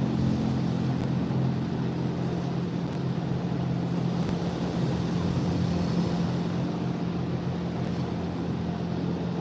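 Automatic drive-thru car wash running, heard from inside the car: a steady low hum over a continuous rushing noise.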